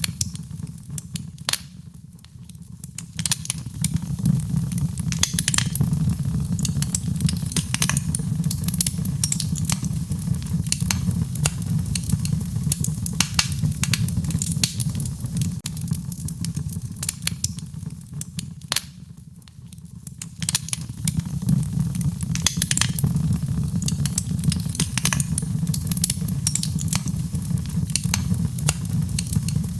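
Wood fire in a fireplace crackling, with many sharp irregular pops and snaps over a steady low rumble of flame. It briefly drops quieter twice, about two seconds in and again about two-thirds of the way through.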